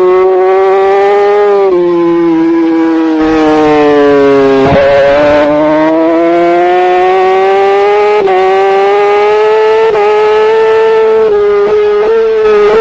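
Racing superbike engine at high revs, heard from a camera mounted on the bike: the revs fall for about three seconds, break sharply a little before the middle, then climb steadily for the rest, with brief small dips as it shifts up through the gears.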